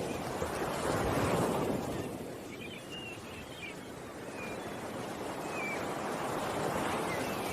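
Ocean waves washing in, two swells of surf a few seconds apart, with a few short bird chirps over the top.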